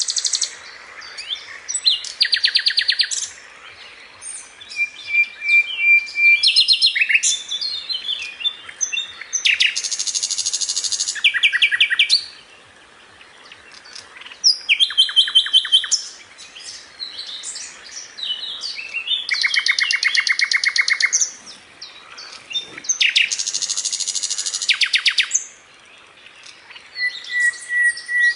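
A small songbird singing: phrases of rapid trills and chirps lasting a second or two each, with brief pauses between them.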